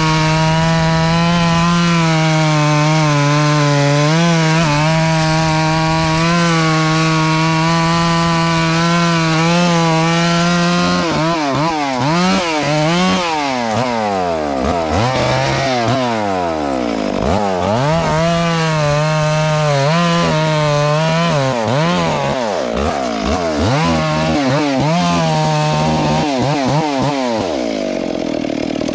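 Chainsaw engine running steadily at high speed for about the first ten seconds, as in a cut through wood. It is then revved up and down over and over, its pitch sweeping up and falling back, and drops off near the end.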